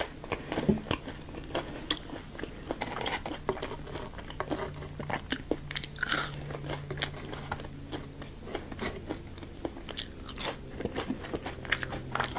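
Close-miked eating: crunchy bites and wet chewing of fast food, with many small sharp crackles, over a faint steady low hum.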